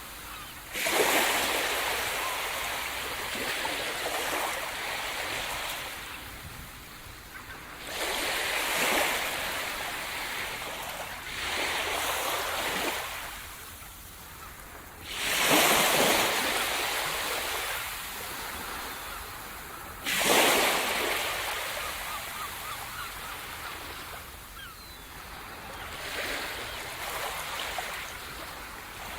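Sea surf: about six waves break and wash up the shore one after another, each surge coming in suddenly and then fading away over several seconds. The strongest breaks come about halfway through and again a few seconds later.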